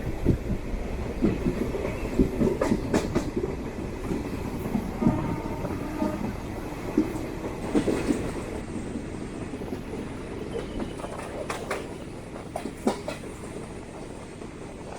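DEMU train running on the rails: a steady rumble with the clatter of wheels over rail joints, growing quieter towards the end as the train slows for its station stop.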